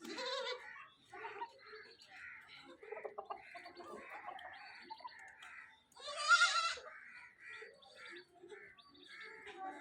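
Gulabi goats bleating, with one loud bleat about six seconds in and another at the start, while small birds chirp again and again.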